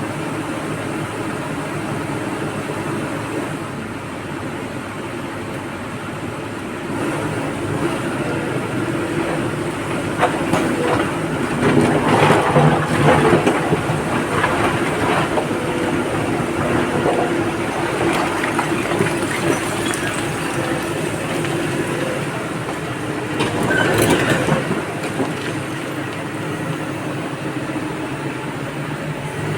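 Excavator loading a dump truck: its diesel engine runs steadily while loud rattling clatter of material going into the truck comes and goes, strongest around the middle and again briefly near the end.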